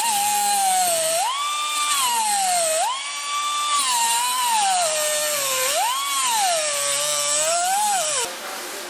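High-speed power tool whining, its pitch sagging repeatedly as it is pressed into the work and climbing back when eased off. It cuts out about eight seconds in.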